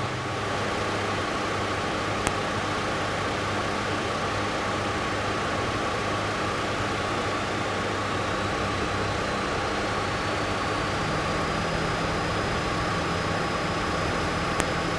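Cessna 172's engine and propeller running at takeoff power, a steady drone as the plane accelerates down the runway. A faint whine slowly rises in pitch in the middle.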